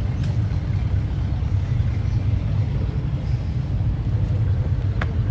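A car engine idling: a steady low rumble, with a single short click about five seconds in.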